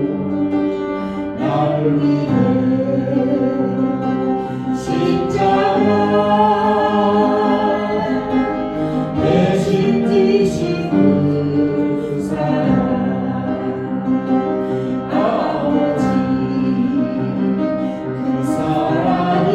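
A gospel worship song sung by a group of voices with instrumental accompaniment, slow and sustained.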